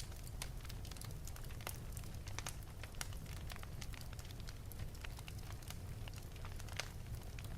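Wood fire burning in an open fireplace, crackling with many irregular small pops and snaps over a steady low rumble.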